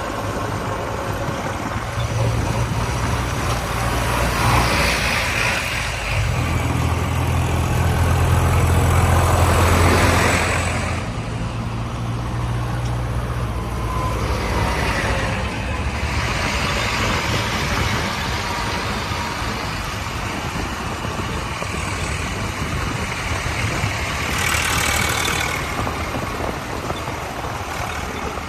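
Tractor engine running, working harder from a few seconds in to about ten seconds in, then easing back to a steadier run. Several broad rushing swells of noise rise and fall over it.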